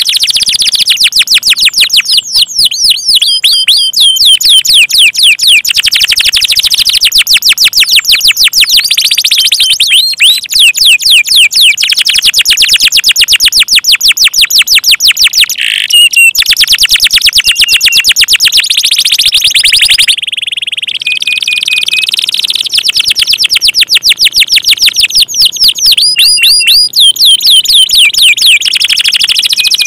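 Canaries singing loudly and almost without pause, in long, fast trills of repeated sweeping notes, briefly softening about twenty seconds in.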